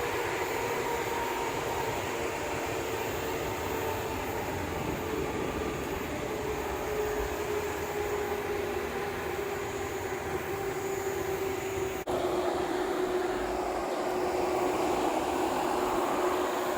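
A Mabru 14,000 BTU 12-volt rooftop RV air conditioner running: a steady whooshing hum from its fan and compressor, with one hum tone that slowly falls in pitch throughout. There is a brief dip in the sound about twelve seconds in.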